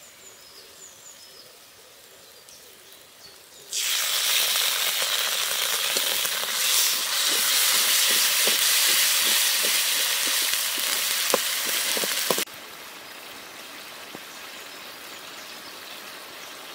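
Ginger, garlic, cumin and chilli sizzling loudly in hot oil with fried onions, with a few sharp crackles. The loud sizzle starts suddenly about four seconds in and cuts off abruptly about eight seconds later, leaving a softer steady sizzle.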